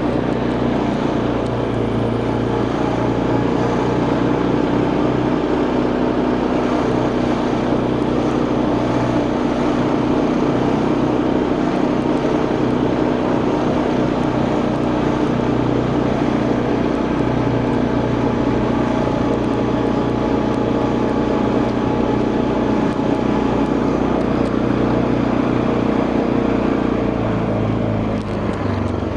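Quad bike engine running steadily while riding, with road and wind noise; the engine note drops near the end as it slows.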